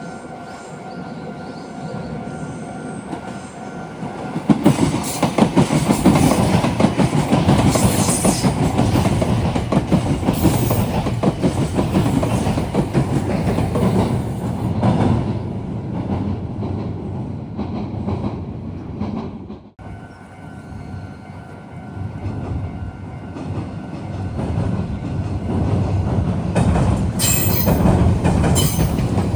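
Meitetsu electric trains passing through a rail junction, wheels clattering over the rail joints and points. The first train runs loud for about fifteen seconds, and its sound cuts off abruptly. A second train then approaches and grows loud near the end. A steady high tone sounds under the quieter stretches.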